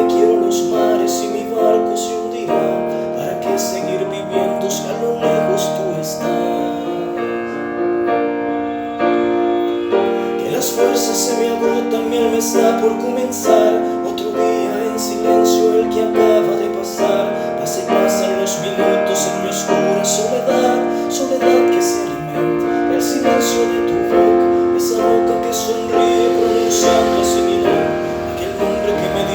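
Instrumental break of a pop ballad led by piano chords, with a light percussion beat keeping steady time.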